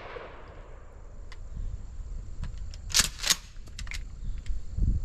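The echo of a shotgun blast fading away over about the first second, then two sharp clacks a third of a second apart about three seconds in.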